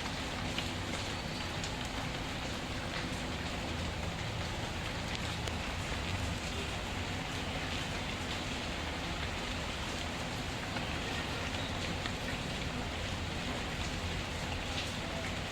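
Steady rain falling, an even hiss, with small scattered crackles of a burning wood fire mixed in.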